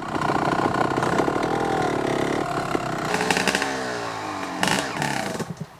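Dirt bike engine revving, its pitch rising and falling under throttle and then dropping away about four seconds in. There are a couple of sharp knocks just before the engine sound falls off near the end.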